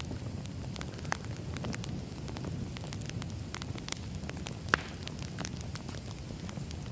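Wood fire crackling: a steady low rumble of burning logs with scattered snaps, and one sharp pop about two-thirds through.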